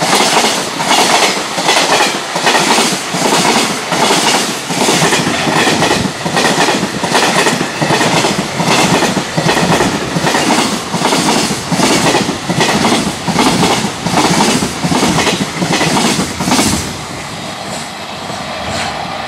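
A container freight train's wagons passing at speed, their wheels clattering over the rail joints in a loud, steady clickety-clack of about two beats a second. About 17 seconds in, the clatter stops and gives way to a quieter, steady rumble.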